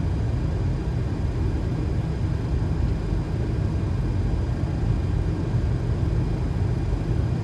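Steady low rumble of airflow and engines heard inside a Boeing 737 cockpit on short final, gear down and flaps 30.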